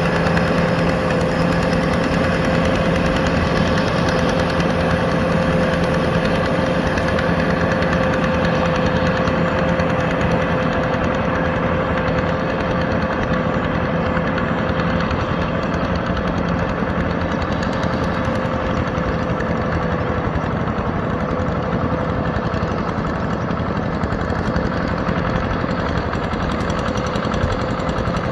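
Yanmar EF725T tractor's diesel engine running steadily, with a steady whine over the engine note.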